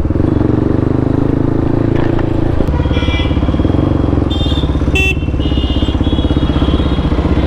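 2016 KTM RC390's single-cylinder engine running through a full-system aftermarket exhaust at steady revs, with a brief change in its note about two and a half seconds in.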